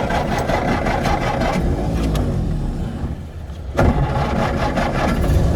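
1926 fuel truck's engine pulling under throttle, its note rising and falling. It drops away briefly a little past three seconds in, then comes back on.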